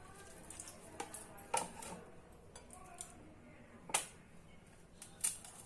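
A knife knocking and clinking against a dish or board while slits are cut into raw chicken pieces: a handful of sharp, separate knocks, the loudest about a second and a half in, near four seconds and near the end.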